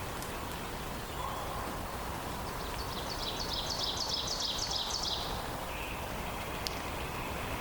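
A songbird sings one high phrase of quickly repeated notes lasting about two and a half seconds, a few seconds in, over a steady rushing background of forest ambience.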